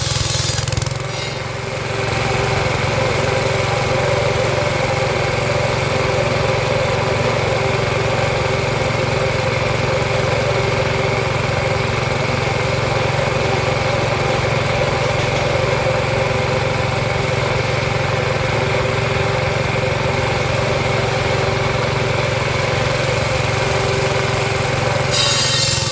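An engine running steadily, with a constant hum, dipping briefly about a second in.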